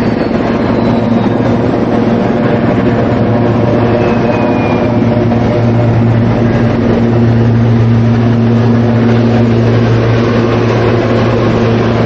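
Engine running steadily with a loud, constant low hum and a noise bed, unchanging throughout.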